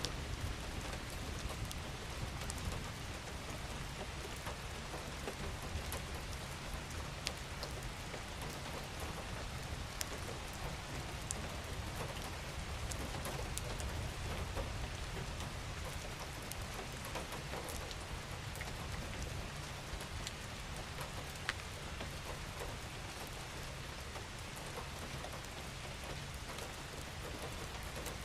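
Steady rain falling, with the close patter and ticks of individual drops over a continuous hiss and a low rumble underneath.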